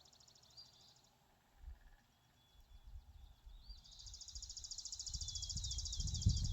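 Outdoor ambience: rapid, high-pitched pulsed trilling from wildlife, louder in the second half, over a low rumble of wind on the microphone that builds through the second half.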